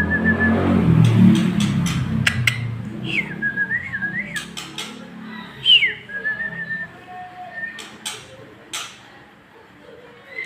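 A male white-rumped shama singing. Three loud whistled phrases each slide down and settle into a short warbling trill, with sharp clicks scattered between them. A low rumble is heard in the first few seconds.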